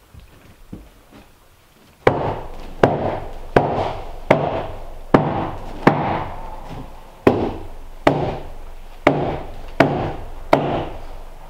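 A steady series of about a dozen hammer blows on wood, roughly one every three-quarters of a second, starting about two seconds in, each a sharp knock with a short ringing decay.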